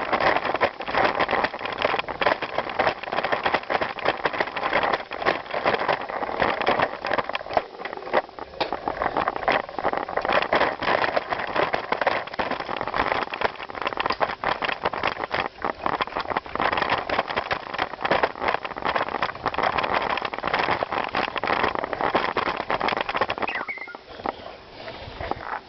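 Bicycle riding over rough ground: constant rattling and crackling of tyres and bike parts, mixed with wind noise on the microphone. It eases briefly near the end.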